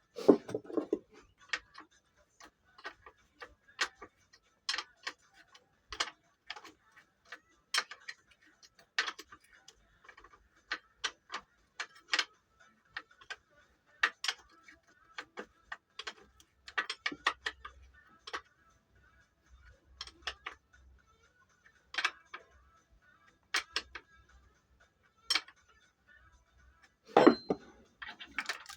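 Irregular sharp clicks and taps, one or two a second, like hand work with tools on metal parts, with a louder clatter near the end.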